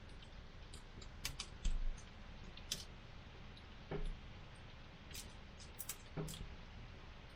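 Wood campfire crackling, with scattered sharp pops and a few duller snaps at irregular intervals.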